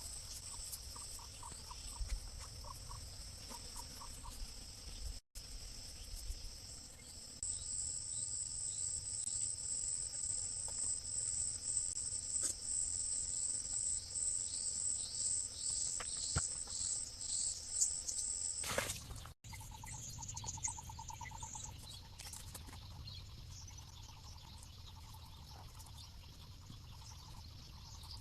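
Crickets and other insects trilling in a steady high-pitched chorus, with short pulsing calls underneath. The sound cuts off abruptly twice, and there is a brief rushing noise just before the second cut.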